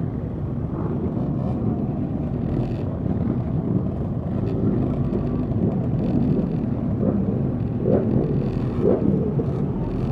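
Motorcycle engines running at low parade speed, with wind on the microphone. A few short throttle blips rise and fall in pitch in the second half.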